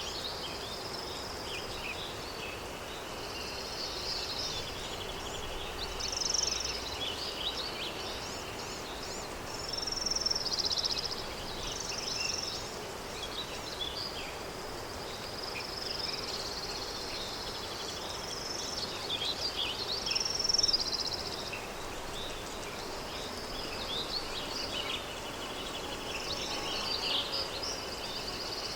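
Countryside daytime ambience: many birds chirping and singing over a steady insect buzz and a soft wind haze.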